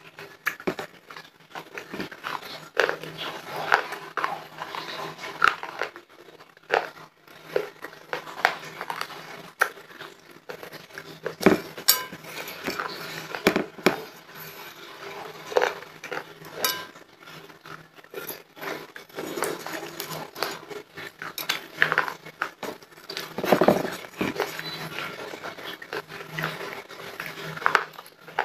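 Close-miked chewing and crunching of small dry crumbs of homemade clay and chalk (khadiya) sweets, an irregular run of crackly clicks, mixed with fingertips dabbing and scraping at crumbs on a plate.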